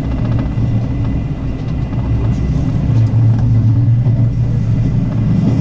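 JR West local electric train running along the line, heard from inside the carriage: a loud, steady low rumble of wheels on rails.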